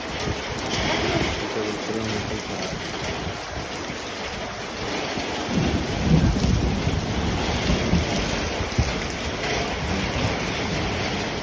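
Heavy rain pouring down in a gusty windstorm, a steady hiss of rain. A louder low rumble swells about five to seven seconds in.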